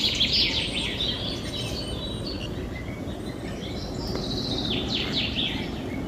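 Birds chirping and calling in quick high chirps, a burst at the start and another about four seconds in, over a steady low background noise.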